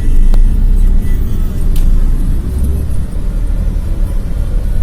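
Loud, steady low rumble of a vehicle moving along a road in traffic.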